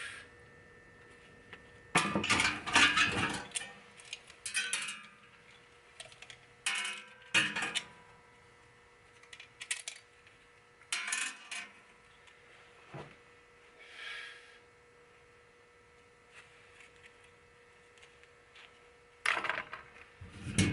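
Metal parts of a stereo receiver clinking and clattering in short, irregular bouts while it is being dismantled, the loudest bout about two seconds in.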